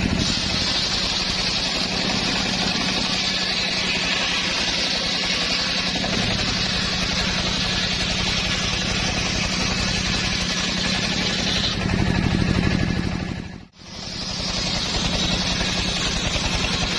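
Engine of a homemade circular saw rig running steadily, with a high hiss over it that stops about twelve seconds in. The sound swells briefly, then drops out almost completely for a moment before the engine sound returns.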